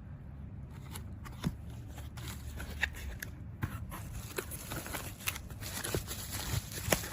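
Scattered small clicks and taps of objects being handled, growing more frequent toward the end, over a low steady hum.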